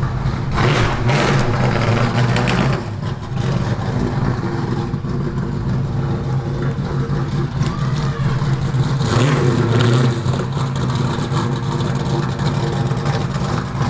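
GMC Sierra's 5.3 L V8 running through a loud aftermarket exhaust, with a steady low rumble that swells twice as the engine is revved.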